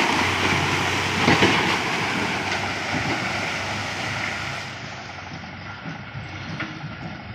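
Diesel tractor pulling a trolley loaded with murum away, its engine running under a clattering rattle and fading steadily; a louder knock about a second in.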